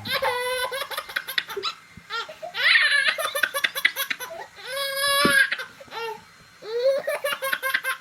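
A young child laughing hard in repeated bursts of quick, pulsing giggles.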